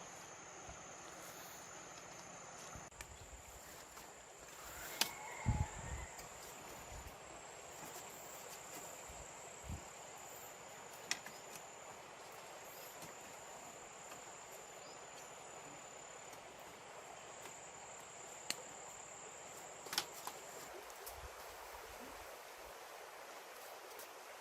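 Steady high-pitched drone of insects, shifting slightly in pitch every few seconds, with a few sharp knocks over it: the loudest about five seconds in and near twenty seconds.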